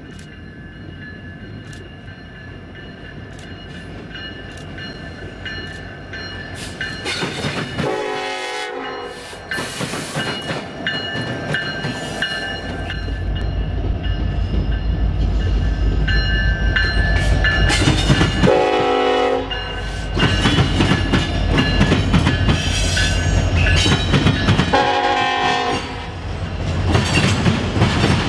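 Norfolk Southern freight train led by an SD70ACe diesel locomotive, sounding its multi-note air horn in several blasts as it approaches. About halfway through, the diesel engines' low rumble swells as the locomotives pass, with wheels clacking over the rails.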